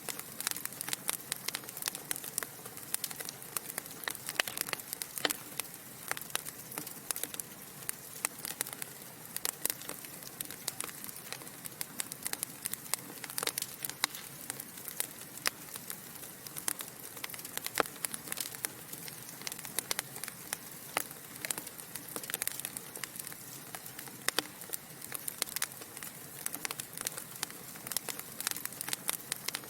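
Wood fire burning in a fireplace: a steady soft hiss with many irregular, sharp crackles and pops from the burning logs.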